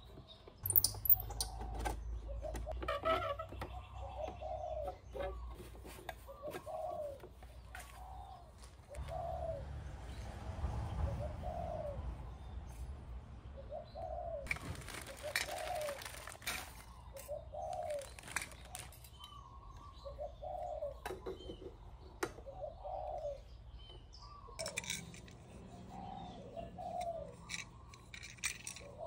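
A bird calling in low, repeated coos, about one a second, with scattered light clicks and clinks of metal parts being handled.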